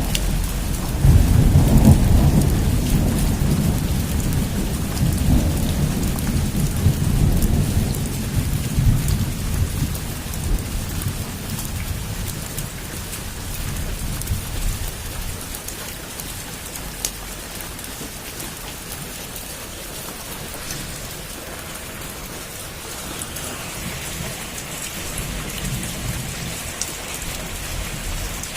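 Heavy rain falling on a roof, with a long roll of thunder that starts about a second in, is loudest early on and fades away over the next dozen seconds.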